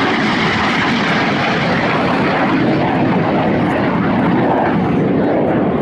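Turbojet noise from a pair of BAC Strikemaster jets (single Rolls-Royce Viper each) flying past in a display: a loud, steady rush whose high end fades as they draw away.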